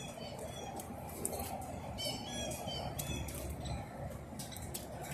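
Birds chirping in short repeated calls, busiest about two to three seconds in, among scattered sharp clicks and a steady background hiss.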